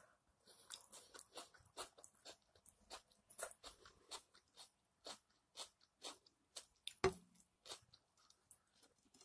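A person chewing steak: a steady run of quiet, wet clicks and crunches about two to three a second, with one louder click about seven seconds in.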